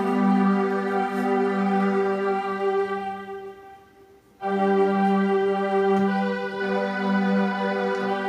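Electronic keyboard playing a hymn in slow, held chords with an organ-like tone. The chord fades out about three seconds in, and the next phrase starts after a brief pause.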